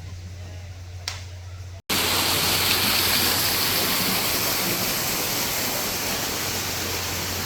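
Waterfall rushing, a loud steady roar of falling water that starts abruptly about two seconds in. Before it there is a faint low hum and a single click.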